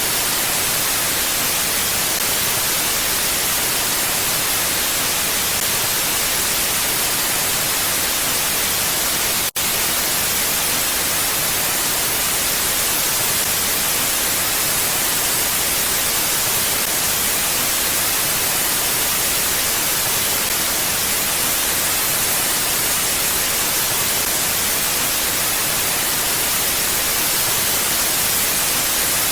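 Steady, even hiss of wind noise, brightest in the treble and without gusts, with a brief dropout about nine and a half seconds in.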